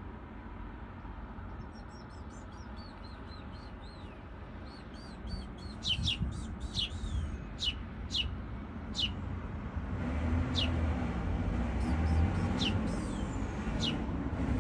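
Small birds chirping: many short, high calls that each slide quickly downward, coming thicker from about a third of the way in. A low rumble underneath grows louder near the end.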